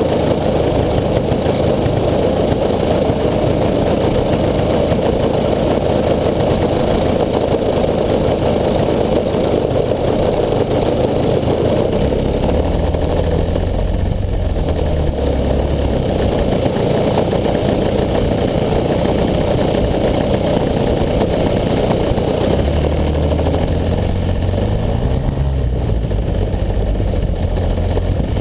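Desert Aircraft DA-100 twin-cylinder two-stroke petrol engine of a large RC aerobatic plane, heard from a camera mounted on the plane, running steadily. Its pitch shifts up and down a little from about twelve seconds in, and again past twenty seconds.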